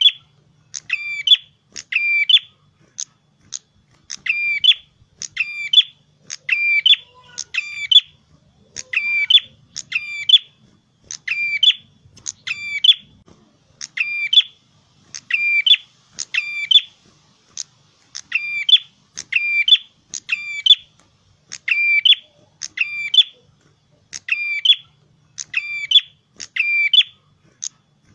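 A prenjak kepala merah (a small prinia-type songbird) calling loudly and insistently: a sharp, high, hooked call repeated over and over, roughly once a second and sometimes in quick pairs, with a few brief pauses.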